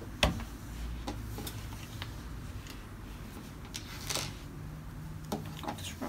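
A few scattered light clicks and clatters of plastic LEGO pieces being handled and picked up, with a slightly louder clack about four seconds in, over a faint low room hum.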